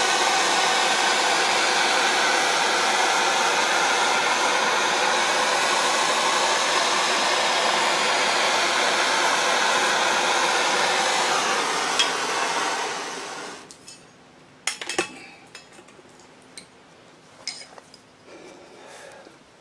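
Electric heat gun blowing steadily, warming a stuck nut to free it, switched off about 13 seconds in. After it stops, a few light metal clinks of tools being picked up and set down.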